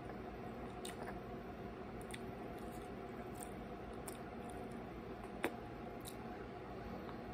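Faint chewing of pizza over a steady low room hum, with small mouth clicks and one sharper click about five and a half seconds in.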